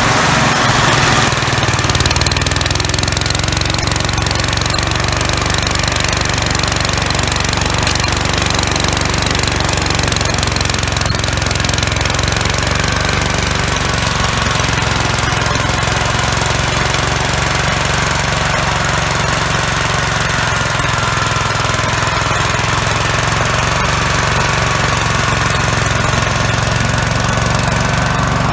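Gravely walk-behind tractor's single-cylinder engine running steadily under the MA115 snowblower, with a constant throb and whining tones from the drive and blower.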